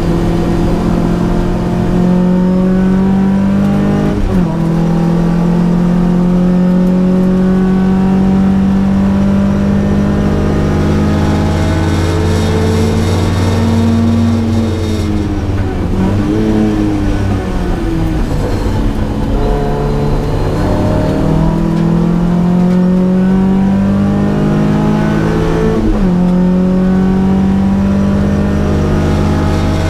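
Datsun P610 rally car's engine driven hard. Its pitch climbs steadily in each gear and drops suddenly at upshifts about four seconds in and again near the end. Around the middle the revs fall away in a series of short dips and jumps, as under braking and downshifting.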